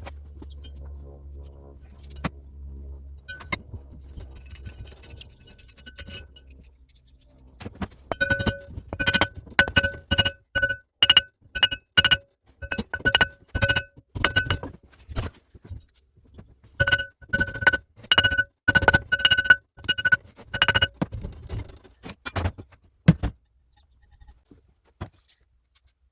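Metal being struck with a hammer, each blow ringing with the same metallic tone, in two runs of about two to three blows a second with a short break between. A few single knocks follow near the end, after a low hum in the first few seconds.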